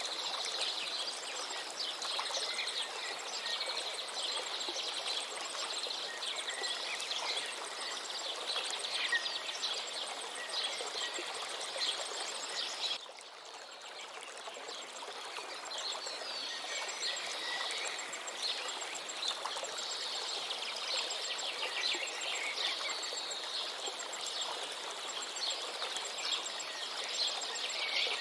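River water flowing steadily under a chorus of many small birds chirping and trilling. About halfway through the whole sound drops for a moment, then picks back up.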